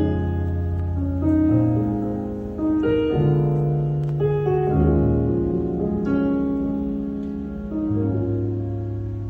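Instrumental music: a piano playing slow, held chords over low bass notes, the chords changing every second or two.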